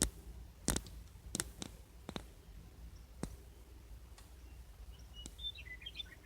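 Scattered sharp clicks, the loudest right at the start, then a short bird song of quick notes stepping down in pitch about a second before the end, likely a western meadowlark.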